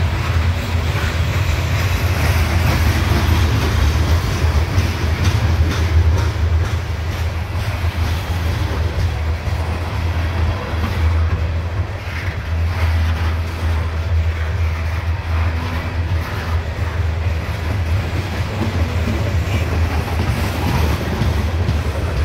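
CSX coal hopper cars rolling past close by: a steady low rumble of steel wheels on the rails, with scattered clicks and clatter from the wheels and couplings.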